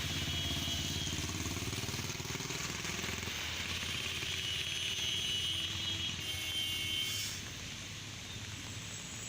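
Road traffic: vehicle engines running and passing over a steady background noise, with the level dropping somewhat about seven seconds in.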